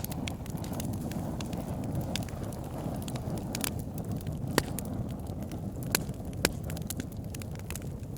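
Wood fire burning: a steady low rush of flames with irregular sharp crackles and pops from the burning logs, the loudest pops coming a little past the middle.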